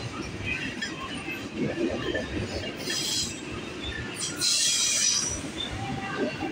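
Freight train of loaded tank cars rolling past with a steady rumble of wheels on rail. Twice, high-pitched wheel squeal rises over it: briefly about three seconds in, then louder for about a second shortly after.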